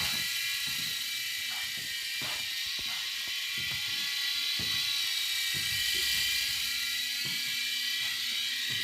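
Small RC toy helicopter's electric rotor motors whining steadily in flight, with scattered light knocks.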